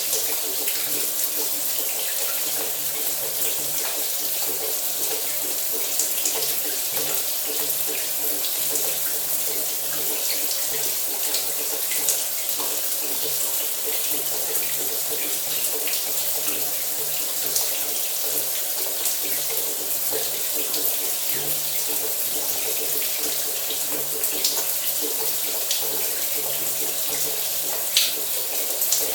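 Shower water running steadily: an even hiss of spray with a few brief sharper splashes, the most prominent near the end, over a faint low hum.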